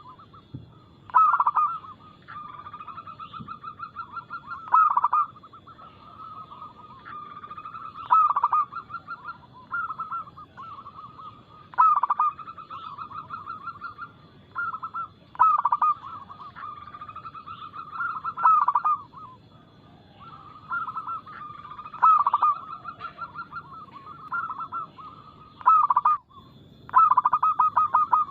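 Zebra doves (perkutut) cooing their song: a run of rapid, stuttering coos followed by a rolling trill, repeated about every three to four seconds, about eight phrases in all.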